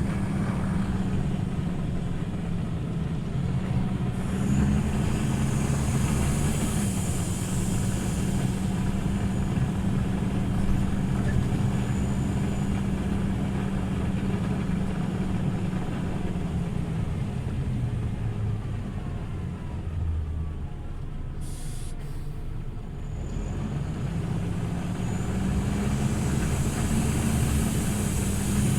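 Scania OmniLink CL94UB city bus's diesel engine running as the bus drives, its note rising a few seconds in, easing off through the middle and rising again near the end. A short, sharp hiss about two-thirds of the way through, typical of the bus's air brakes.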